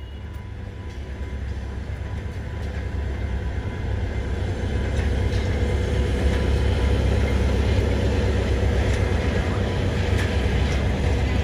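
Diesel train approaching along the track, its low engine rumble growing steadily louder over the first six seconds, then holding loud as it draws alongside.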